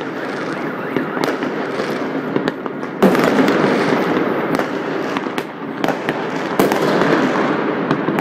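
Many fireworks and firecrackers going off at once across the city, a dense, continuous crackle of bangs and pops. It gets louder from about three seconds in.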